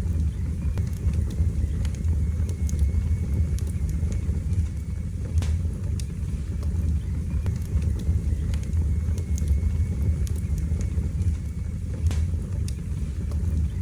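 Wood fire burning in a fireplace: a steady low rumble of flames with scattered crackles and pops, the sharpest about five seconds in and again near twelve seconds.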